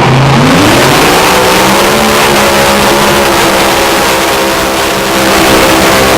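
Mini unlimited pulling tractor's engine at full throttle, loud, rising in pitch over the first two seconds and then holding at high revs.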